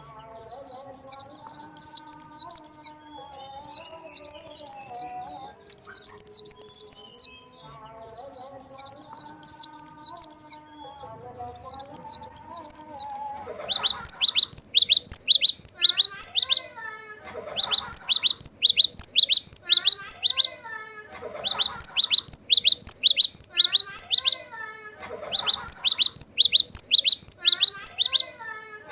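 Cinereous tit (glatik batu) singing: loud phrases of quick, repeated high notes, each phrase about two seconds long with short pauses between them. The notes come faster and denser in the second half. Fainter, lower warbling runs underneath.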